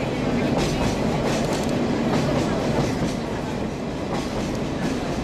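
Sagano Scenic Railway sightseeing train running along the track, heard from on board: a steady rumble of the wheels with irregular clicks and clacks over the rails.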